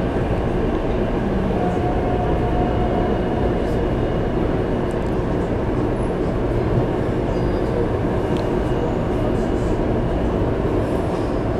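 Passenger train running, a steady rumble of wheels on rails.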